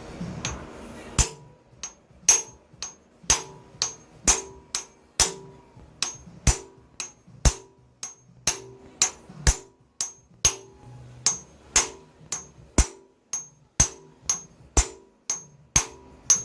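Hammer blows driving a new pilot bearing into the end of a Ford 5.0-liter V8's crankshaft: a steady series of sharp metallic strikes, just under two a second, starting about a second in.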